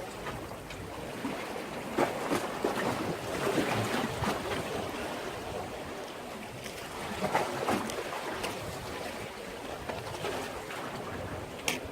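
Sea waves washing and splashing against a breakwater, in irregular surges over a steady wash.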